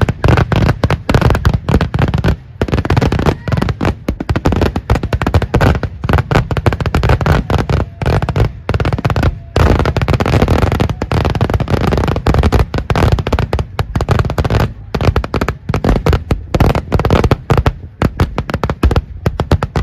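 A dense, continuous barrage of firecracker bangs from a Kerala temple festival's daytime fireworks display, many sharp reports a second with barely a pause.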